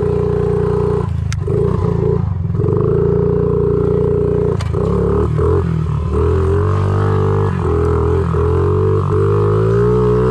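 Honda CRF50 pit bike's small single-cylinder four-stroke engine running under steady throttle while riding, with several brief dips in the engine note as the throttle is eased off and reopened, and the pitch climbing slightly in the second half.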